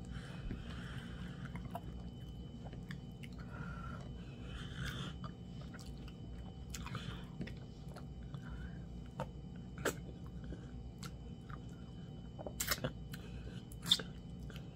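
Close-up chewing and mouth sounds of someone eating fufu and meat in soup by hand, with scattered sharp clicks; the loudest clicks come about ten seconds in and just before the end.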